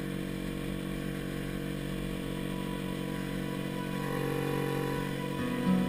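A motorboat's engine running steadily underway, a little louder from about two-thirds of the way in.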